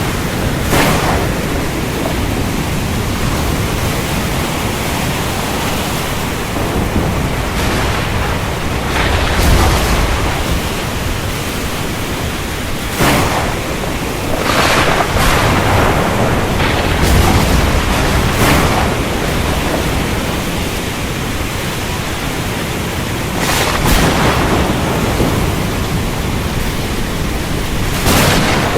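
Steady heavy rain with a thunderstorm: a sharp thunder crack every few seconds, each fading within a second or so, and deep rumbles about a third and again about two-thirds of the way in.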